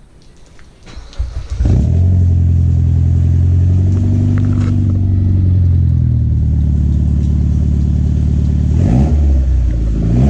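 Car engine with a newly fitted aftermarket exhaust starting up about two seconds in and running steadily, with short blips of revs near the end.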